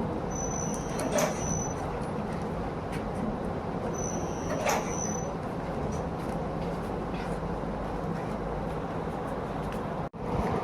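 Soap-factory machinery running with a steady din. Twice, about four seconds apart, a short high hiss with a knock in it rises above the din, each lasting a little over a second.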